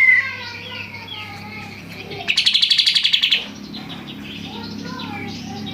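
Kapas tembak songbird singing loudly: a series of sliding whistled notes, broken about two seconds in by a loud, rapid trill lasting about a second. A faint steady low hum runs underneath.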